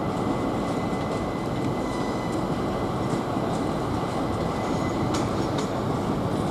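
Train running at a steady level: a continuous rumble with a few light clicks.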